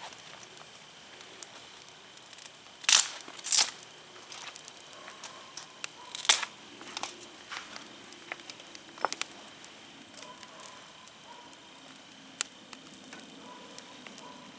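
Wood fire crackling with scattered small ticks and snaps, and three much louder sharp cracks near the middle.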